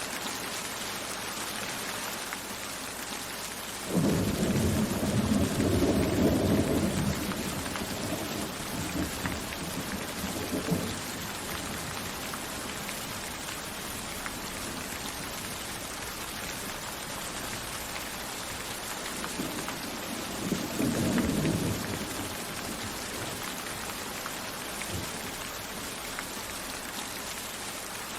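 Steady rain falling, with thunder: a sudden loud clap about four seconds in that rolls on for several seconds, and a shorter rumble around twenty seconds in.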